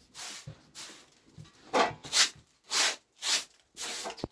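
Repeated rubbing strokes on a hard surface, about two a second, growing louder in the second half.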